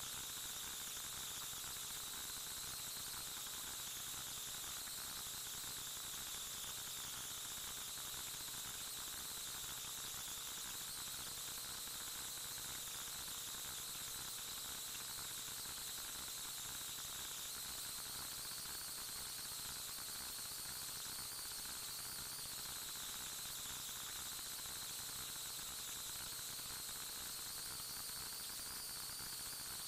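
Steady hiss of recording noise with faint, constant high-pitched whining tones; no distinct events.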